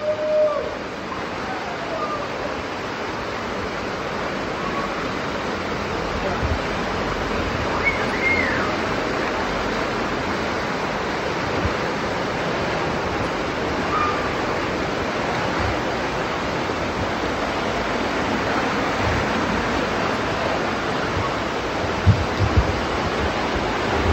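Steady rush of water cascading over the rock steps of Dunn's River Falls, with faint distant voices calling over it.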